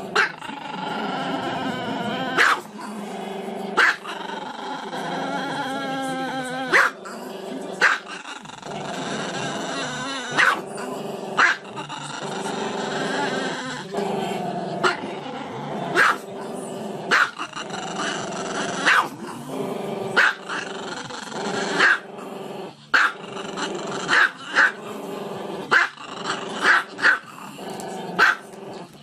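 Bernese mountain dog vocalising on and on: long, drawn-out growly grumbles broken by short sharp barks every second or two, the barks coming faster near the end.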